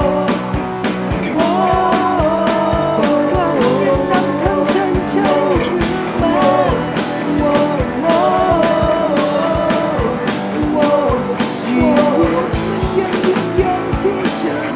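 Rock band playing, with drum kit and a bending melodic lead line over the accompaniment.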